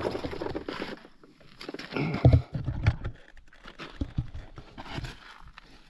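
Irregular knocks, clicks and rustling of hands handling gear at a stopped motorcycle, with a cluster of heavier thuds about two seconds in. No engine is running.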